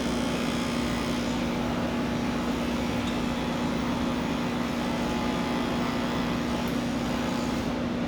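Electric pet clippers running with a steady buzzing hum during a cat shave-down.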